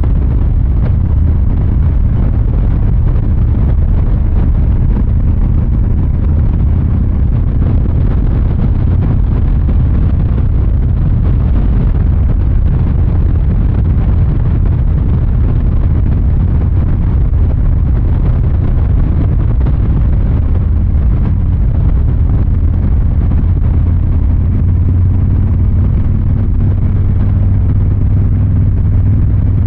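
Harley-Davidson Fat Boy 114's Milwaukee-Eight 114 V-twin running steadily through its exhaust, growing a little stronger near the end.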